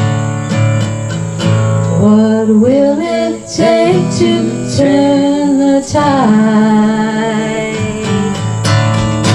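Live band playing an instrumental passage of a folk-style song: strummed acoustic guitar under a lead melody that bends and slides in pitch.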